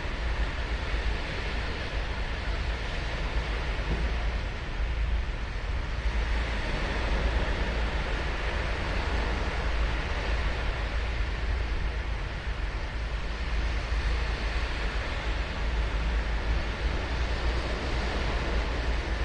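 Ocean surf breaking and washing on a sandy beach: a steady hiss that swells and eases slowly, over a constant low rumble.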